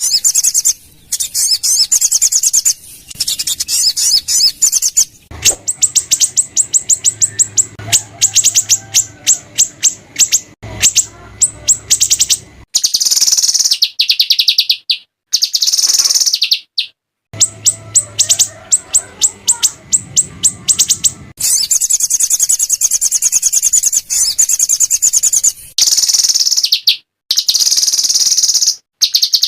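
A mix of small songbirds' songs: harsh, rapid-fire trills and chattering strings of very high notes, in runs of a few seconds that stop and start abruptly with short silences between them. A faint low hum sits under some of the runs.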